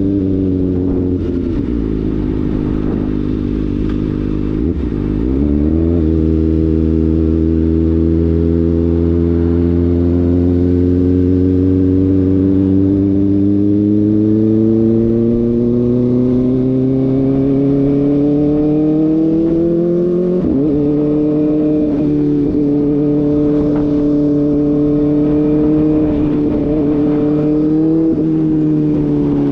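Kawasaki ZX-4RR's inline-four engine through an SC-Project slip-on exhaust, heard from the moving bike. The engine note drops over the first few seconds, then climbs slowly for about fifteen seconds under steady acceleration, falls sharply about twenty seconds in, as at an upshift, and then holds fairly steady.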